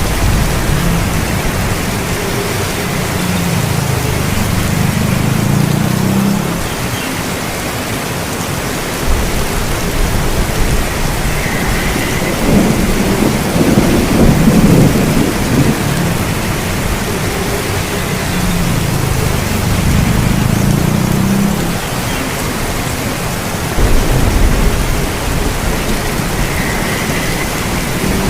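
Heavy rain falling steadily with rolling thunder: low rumbles swell and fade, the loudest about halfway through, with a sharper surge near the end.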